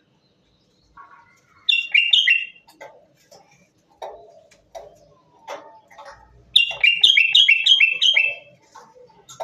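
Common bulbul singing: a short phrase of three or four whistled notes about two seconds in, then a longer run of six or seven quick repeated notes about seven seconds in. Fainter, lower sounds come in between.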